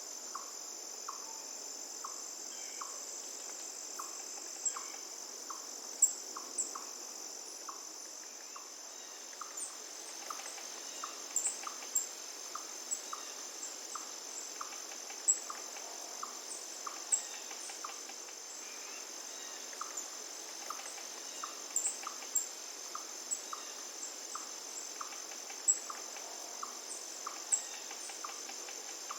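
Steady high-pitched drone of crickets, with a short call repeated regularly throughout and scattered sharp high chirps. A faint rush of flowing river water sits underneath.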